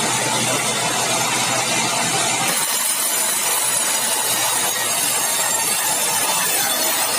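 Sawmill saw running and cutting meranti timber, a loud steady noise. About two and a half seconds in, its lower hum drops away and the high hiss grows stronger.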